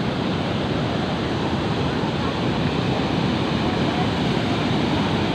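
Fast-flowing river water rushing steadily, like a waterfall, a dense, even wash of sound.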